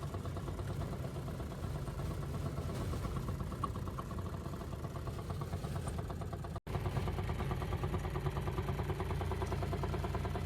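Small engine running steadily at idle, with a fast even pulse; the sound drops out for an instant about two-thirds of the way through.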